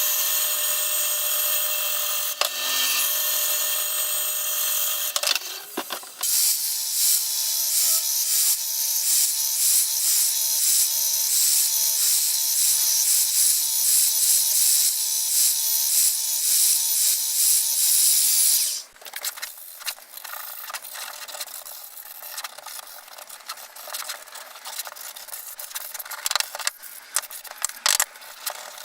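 CNC router, its DeWalt router spindle cutting plywood with a small bit: a loud, steady high whine and hiss that dips briefly about five seconds in and then stops abruptly about two-thirds of the way through. After it, quieter scratching and rubbing with scattered light clicks.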